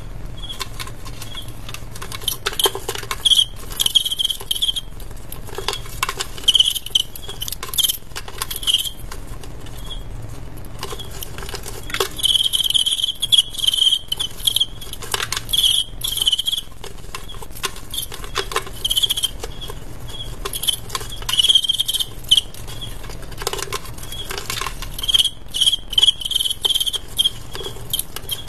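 Male fighting crickets chirping in short, high-pitched bouts, some running into longer trains, with scratchy clicks and ticks between them. This is the chirping of rival males during a cricket fight.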